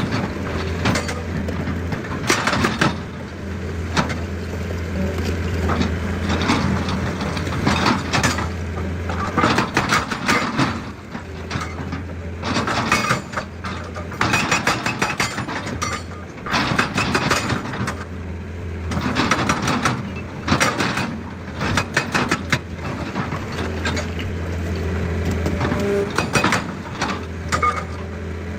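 Excavator's diesel engine running steadily under irregular bursts of crunching and scraping as rock is dug and broken.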